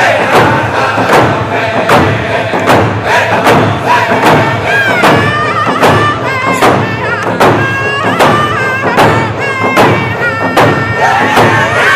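Round dance song: singers' voices gliding and wavering over a steady drum beat, about one and a half strokes a second.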